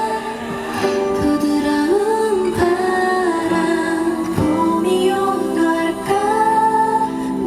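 K-pop girl-group song with female singing over a steady instrumental backing track, heard through the stage speakers.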